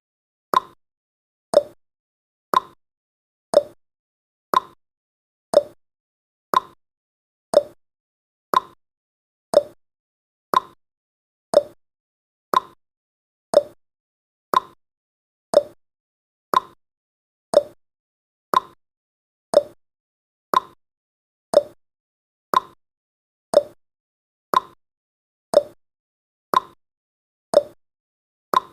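Clock tick-tock sound effect of a countdown timer: one sharp tick each second, alternating between a higher and a lower pitched click.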